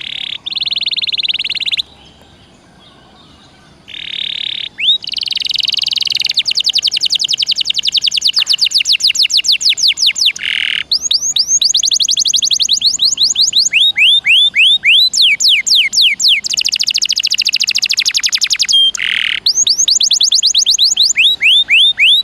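Domestic canary singing a long, loud song: fast trills of short rising notes, roughly ten a second, broken by harsh buzzy held notes and brief pauses.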